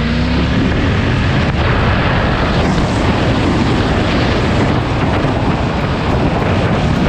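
Heavy wind rushing over the microphone as a BMW M 1000RR is ridden at speed; the bike's inline-four engine is mostly buried under the wind noise.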